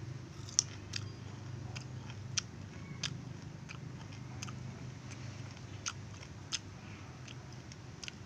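A person biting into and chewing raw noni fruit close to the microphone, with irregular sharp mouth clicks over a steady low hum.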